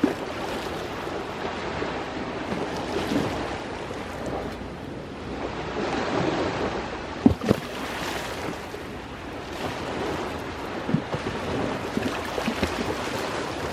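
Sea waves washing steadily onto the shore beside a crackling wood campfire, which pops sharply a few times, loudest twice in quick succession about seven seconds in.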